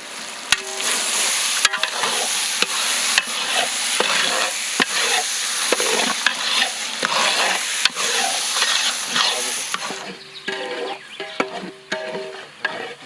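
Boneless chicken sizzling in hot oil and onion-tomato masala in a large pot as it is stirred, with sharp clicks of a metal ladle against the pot. The sizzle eases off about ten seconds in.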